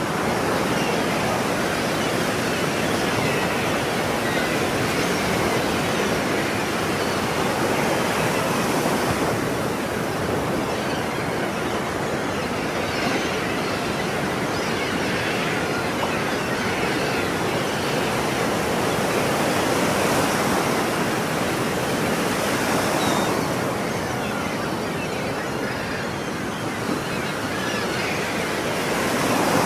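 Ocean waves washing onto a shore, a continuous surf noise that swells and eases slowly every several seconds.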